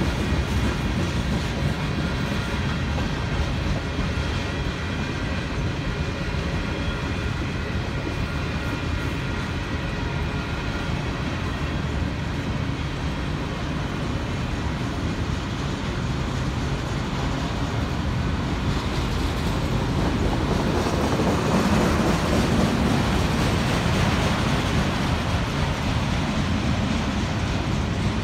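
Freight train of tank cars and autorack cars rolling past, a steady low rumble with wheels clattering over the rail joints, growing a little louder about two-thirds of the way through.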